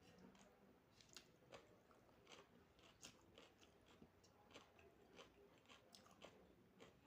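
A person chewing a mouthful of food close to the microphone: faint, irregular wet mouth clicks and light crunches, about two a second.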